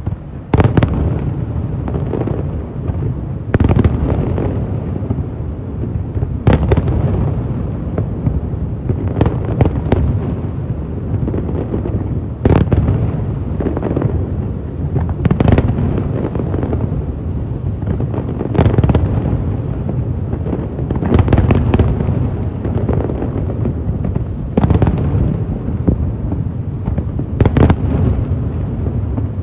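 Aerial fireworks display: loud shell bursts about every three seconds, some in quick pairs, over a continuous low rumble and crackle of smaller effects.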